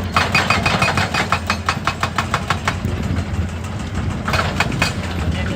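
Hydraulic breaker hammer on a Hitachi EX200 excavator pounding rock in rapid blows, about seven a second. The blows stop about three seconds in and come again briefly near the end, over the excavator's steady diesel engine.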